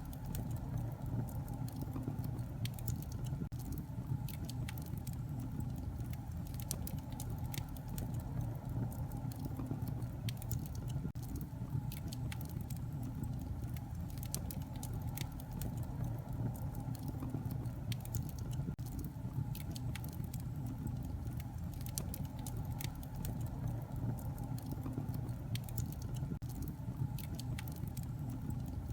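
Wood fire in a fireplace crackling: irregular sharp pops and snaps scattered over a steady low rumble.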